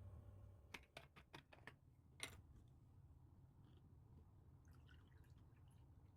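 Near silence with a few faint, sharp clicks or taps: a quick run of about five a little under a second in, then one sharper tap a little after two seconds.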